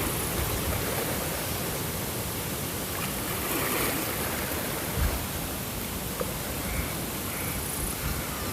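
Steady rushing water from a nature-sound recording, an even wash of noise with a few soft low thumps.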